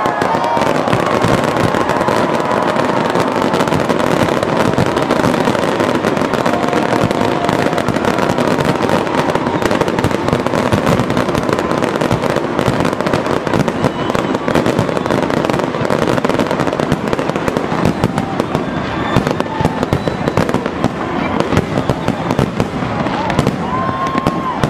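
Fireworks and firecrackers going off in a dense, unbroken crackle of many pops and bangs.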